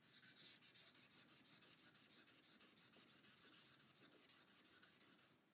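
Wet sandpaper on a soft sanding pad rubbing fast back and forth over the waterborne lacquer of a Les Paul-style guitar body's arched top. It makes a faint hissing scrub of several strokes a second and stops just before the end.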